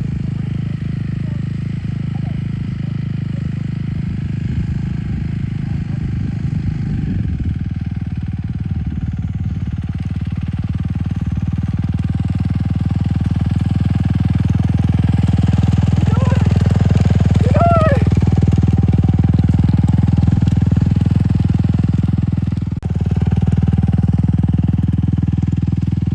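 Dirt bike engine running as it is ridden, growing louder from about halfway through, with a brief drop in level near the end.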